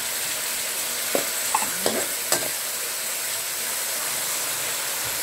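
Canned sardines in tomato sauce sizzling steadily as they are sautéed in a hot oiled aluminium wok with onion, garlic and tomato. A metal spatula scrapes and knocks against the wok four times between about one and two and a half seconds in.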